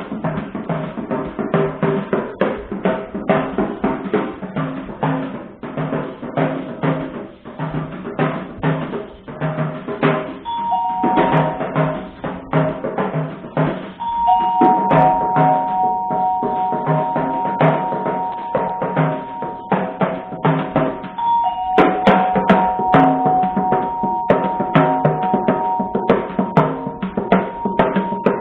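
Drum kit played with rapid, dense strikes on snare and bass drum. From about ten seconds in, two steady held tones sound over the drumming, dropping out twice for a moment.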